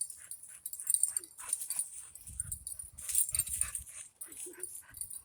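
Dogs breathing hard and snuffling in short, irregular noisy breaths while a muzzled adult pit bull and a puppy interact.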